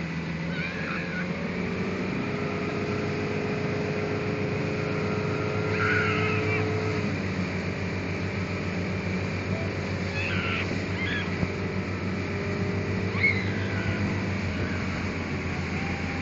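Motorboat engine running steadily under way, its pitch rising about two seconds in, over water and wind noise. A few faint high-pitched cries come through over it.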